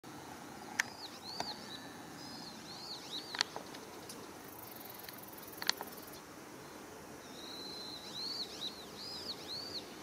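A small wild bird singing: two runs of high, arched, slurred notes, the second starting a little past halfway. A few sharp clicks come in between.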